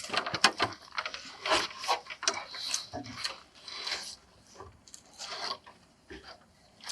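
Irregular scraping and rubbing against wood, a string of short rough strokes that thin out after about five seconds.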